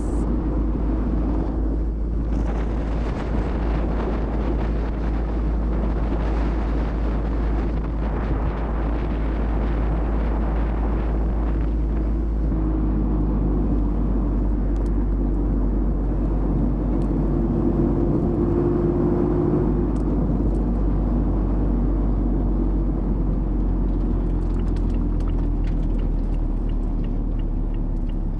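Mazda MX-5's 1.5-litre four-cylinder engine pulling steadily at an easy cruise, its note rising and falling a little, over continuous tyre and road rumble.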